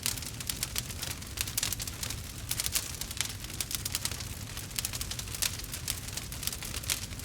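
Wood fire crackling: a dense, irregular run of small pops and snaps over a low, steady rumble.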